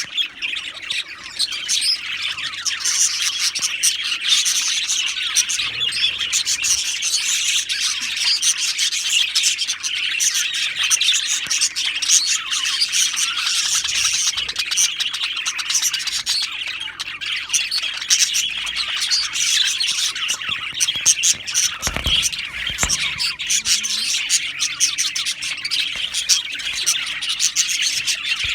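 A flock of budgerigars (budgies) chattering and chirping without a break, many birds at once. A brief low thump sounds about three-quarters of the way through.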